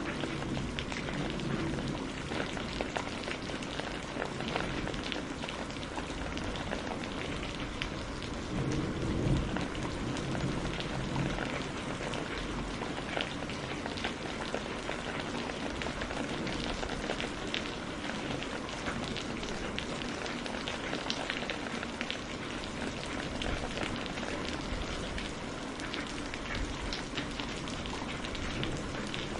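Steady rain falling, a dense even patter of many individual drops hitting surfaces. A low rumble swells briefly about eight to ten seconds in.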